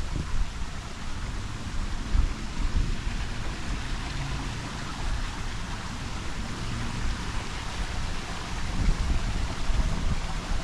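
Wind buffeting the microphone outdoors: a steady hiss with uneven low rumbles throughout.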